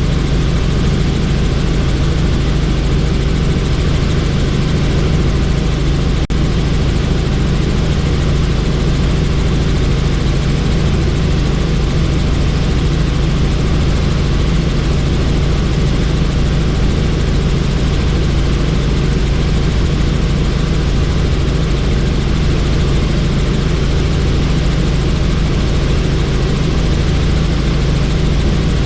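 Helicopter in steady flight, heard from the cabin with the doors off: a constant low rotor and engine drone under a broad rushing noise.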